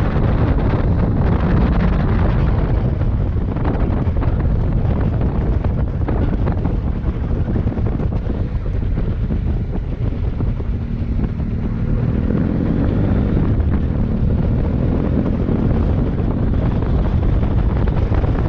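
Wind buffeting the microphone while riding a motorcycle, with the engine running underneath; its note becomes a little more audible in the later part.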